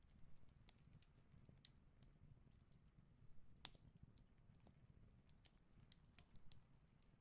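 Faint handling sounds: scissors snipping through pattern paper, then light clicks, taps and paper rustle as the paper and small ceramic bowl weights are moved, with one sharper click a little past halfway.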